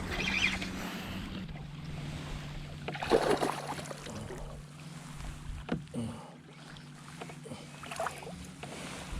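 Water sloshing and short knocks and splashes around a kayak while a caught bass is handled. The clearest come about 3 s and 6 s in, over a steady low hum.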